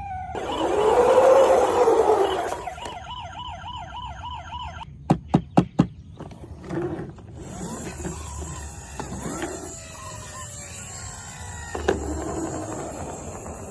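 A siren sounding: a rising-and-falling wail, then a fast warble, followed by four short sharp blasts about a second into the second half and fainter sliding tones after.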